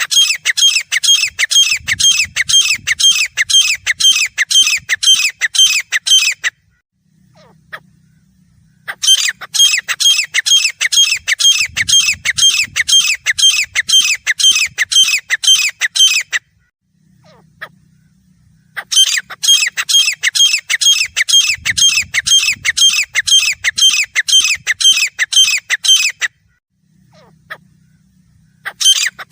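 Grey francolin (teetar) calling: loud runs of harsh notes repeated rapidly, about three a second. The runs come in bouts of roughly seven seconds, with pauses of two to three seconds between them: three full bouts, and a fourth starting near the end.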